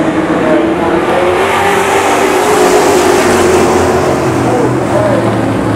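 Race truck engine accelerating hard, its pitch climbing slowly over the first few seconds and then holding steady, over a constant rush of noise.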